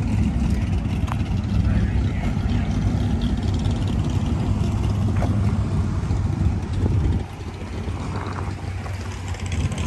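Low, steady rumble of a car engine running nearby, which drops away sharply about seven seconds in.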